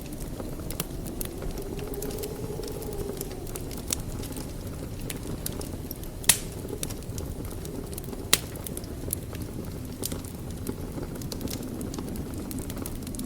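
Wood fire burning in a fireplace: a steady low rumble of flames with many small crackles and two louder pops, about six and eight seconds in.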